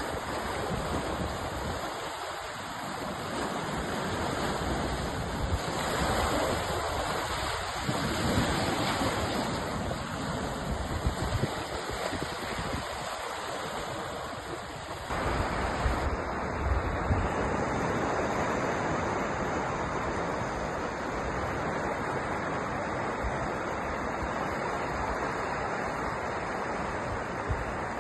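Sea surf: waves breaking and washing in a continuous rush, swelling and easing in the first half and steadier from about halfway.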